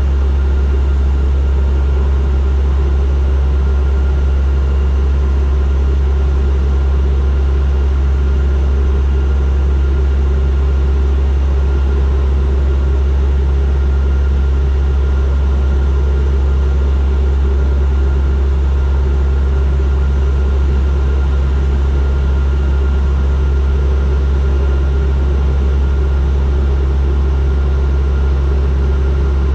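Steady cabin drone of a turboprop airliner in flight: a strong, deep, unchanging propeller hum with a thin high steady tone and an even rush of air noise over it.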